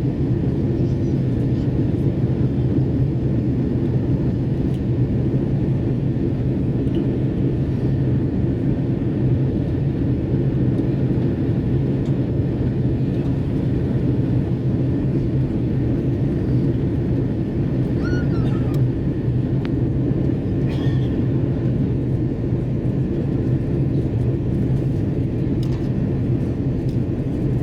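Steady low drone inside the cabin of an Airbus A330-300 airliner, the mixed noise of engines and airflow, holding even throughout.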